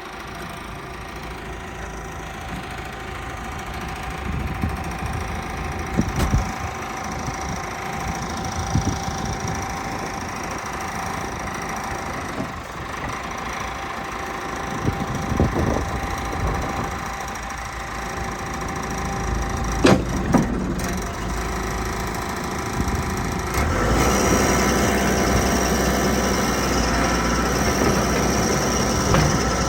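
CAT 416B loader backhoe's turbo diesel engine running while its loader and backhoe controls are worked, with a few sharp metal clunks. About 24 seconds in, the engine comes up in speed and level and stays there.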